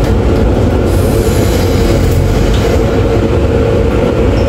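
Taoyuan Airport MRT train running, heard from inside the passenger car: a loud, steady rumble with a steady hum.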